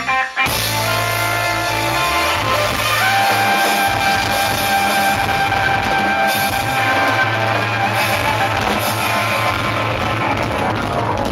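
Rock song's instrumental break: electric guitar carrying a sustained melody over bass and drum kit, after a brief gap near the start.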